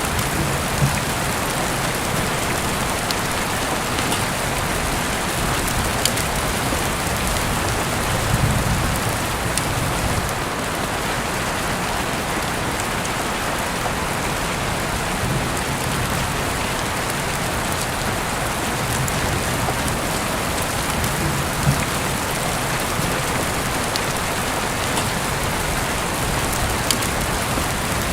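Heavy rain falling steadily, an even hiss of downpour with a few louder single drops ticking here and there.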